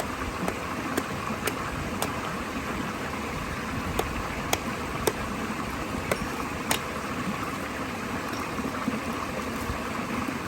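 Steady rushing of falling water from the waterfall and stream, with scattered sharp clicks at irregular intervals.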